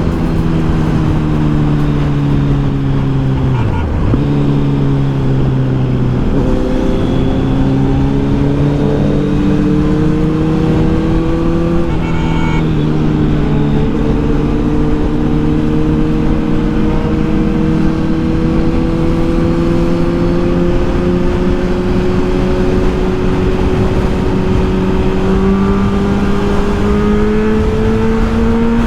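Kawasaki Z900's inline-four engine running under way on a ride. Its note dips sharply about four seconds in and shifts again around six and twelve seconds, then climbs slowly through the second half as the revs build.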